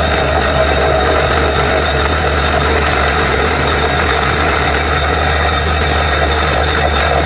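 Borewell drilling rig's heavy diesel engine running steadily, with a strong low hum and no pauses.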